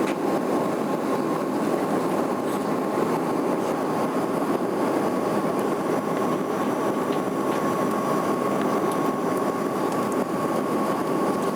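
Steady airliner cabin noise in flight: an even rushing hum with a faint steady whine above it.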